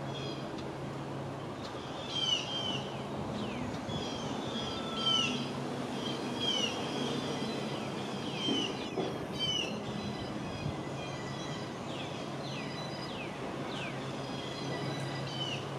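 Birds chirping: short, falling chirps repeated every second or so, over a steady low hum.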